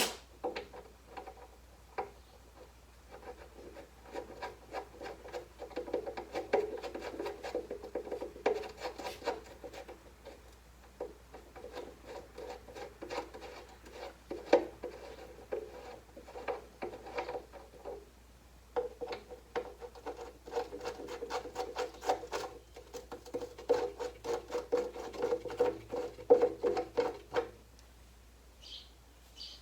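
Parts being worked together by hand at the bench: repeated rubbing and scraping with many small clicks, in two long stretches.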